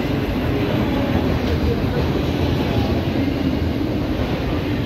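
Freight train of autorack cars rolling past at close range, with a steady rumble and clatter of steel wheels on the rails.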